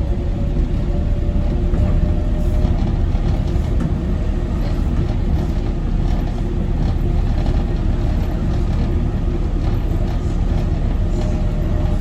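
Docklands Light Railway train running along the track: a steady rumble with a faint motor whine that fades out about two or three seconds in and comes back near the end.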